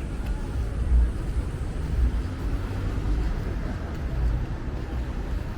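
City street ambience: an uneven low rumble of road traffic with a faint background hiss.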